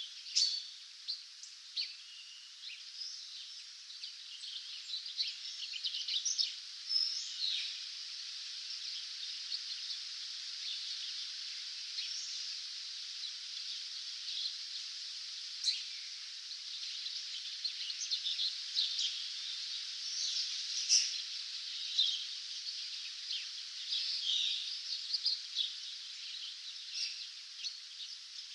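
A dawn chorus of many small songbirds, with short chirps, twitters and trills overlapping over a steady high hiss of background noise.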